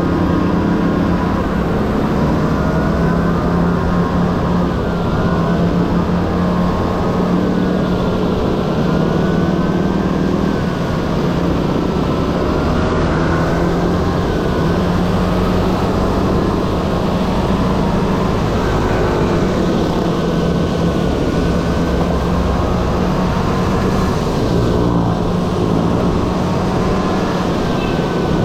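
Honda Dio AF18 scooter's 50 cc single-cylinder two-stroke engine running under way, its pitch rising and falling as the throttle is worked, over steady wind and road noise.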